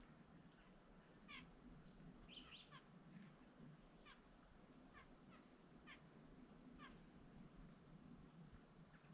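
Faint, short animal calls, each sliding downward in pitch, repeated roughly once a second over a low steady hum.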